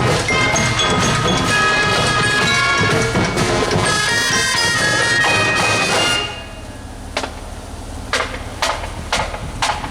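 Marching band playing a tune, with sustained wind-instrument lines over drums. The tune stops about six seconds in, leaving a quieter stretch broken by a few sharp taps.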